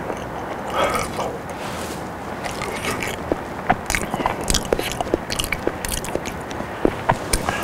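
Close-miked mouth sounds of someone chewing boiled potato: many soft, wet, irregular clicks and smacks, thickest from about two and a half seconds in.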